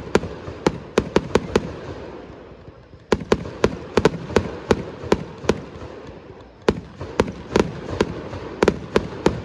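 Fireworks display: aerial shells bursting in rapid volleys of sharp, echoing bangs. The bangs come in three clusters, with a lull of about a second near two seconds in and another near six seconds in.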